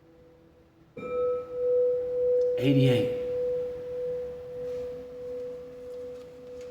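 Background music of sustained bell-like ringing tones. A new tone is struck about a second in and rings on with a slow, wavering swell. A brief louder sound comes near three seconds in.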